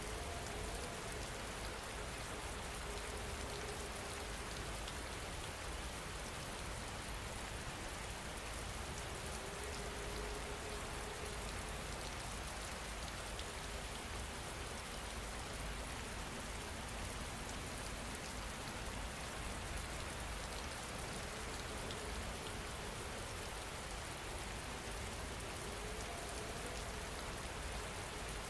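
Steady rain falling, an even, continuous hiss with no breaks.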